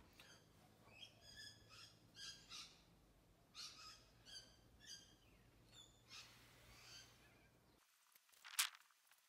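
Faint birds calling: a run of short, repeated chirps over a low background hum. About eight and a half seconds in comes a single sharp click, the loudest sound.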